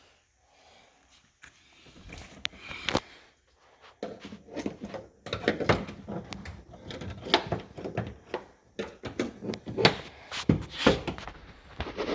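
Irregular clicks, knocks and rattles of parts being worked inside a 2006 Ford Focus door during an outside door handle replacement. They start sparse about two seconds in and come thick and fast from about four seconds on.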